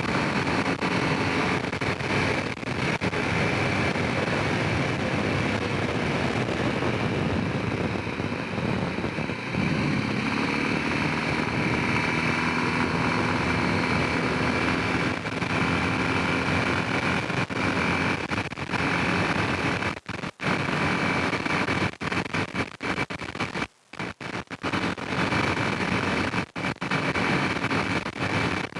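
Honda Rincon 650 quad's single-cylinder engine running loud under way, its note shifting about ten seconds in. Several times near the end the sound briefly cuts out.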